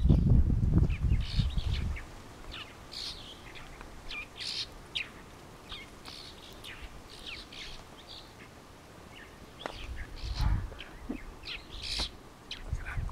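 Small birds chirping over and over in short, high calls. A low rumble sits under them for the first two seconds and again about ten seconds in.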